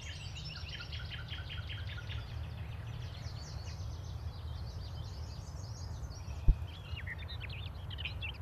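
Small birds singing over a steady low background rumble: a fast, even trill of chirps in the first two seconds, then scattered chirps near the end. A single short knock about six and a half seconds in.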